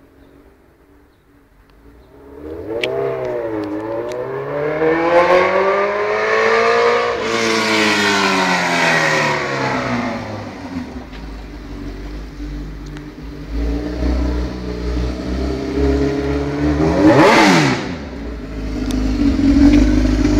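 Suzuki GSX-R 1000 K3 inline-four running with no exhaust fitted, loud and open. Its pitch rises smoothly for several seconds, then falls away; about 17 s in it sweeps past with a quick rise and drop in pitch, and near the end it runs close by at a steady note.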